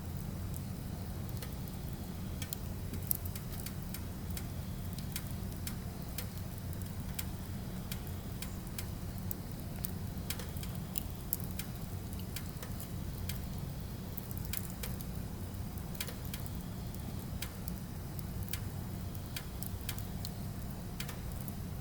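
Firewood burning and crackling: irregular sharp pops and ticks over a steady low rumble, the loudest pops about 3 and 11 seconds in.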